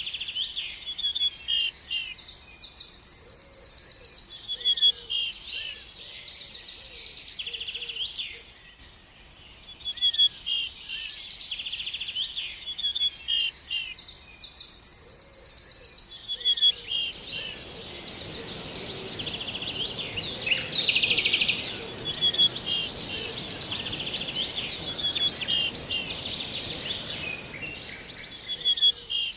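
A songbird singing: repeated high-pitched chirps and quick trilled phrases, with a short pause about a third of the way in. From a little past halfway, a steady high hiss and a soft background rush sound under the song.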